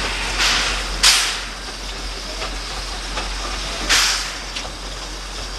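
Narrow-gauge steam locomotive hissing steadily, with three loud bursts of steam: about half a second in, a sharper one about a second in, and another near four seconds.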